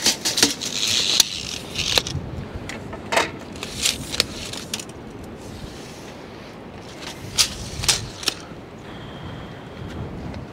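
Wind rumbling on the microphone, with scattered sharp knocks, clicks and scrapes of work being handled.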